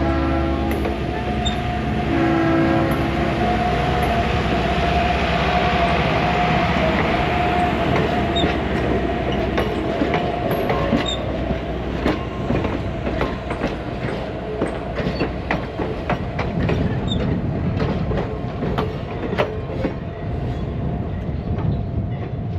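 Diesel-hauled train running on the track with a steady engine drone. A horn sounds in the first few seconds, and later the wheels click repeatedly over rail joints.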